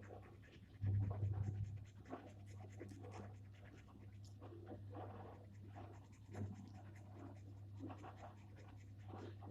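Gel pen drawing on paper: many short, irregular scratching strokes over a steady low hum, with a brief louder low rumble about a second in.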